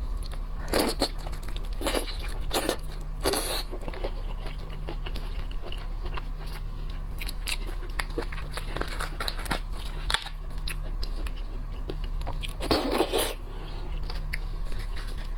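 A person eating shellfish close to the microphone: several loud crunching bites and scattered small wet clicks of chewing, over a steady low hum.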